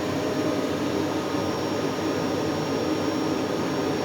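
Vacuum cleaner running steadily, its motor giving a thin high whine over a rush of air as it is used to blow-dry hair.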